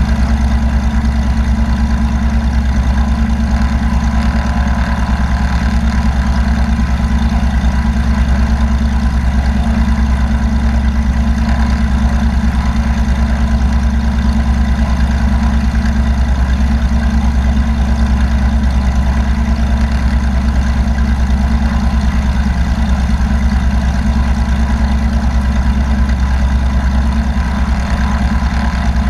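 An engine running steadily at an even speed: a constant low drone that does not rise or fall.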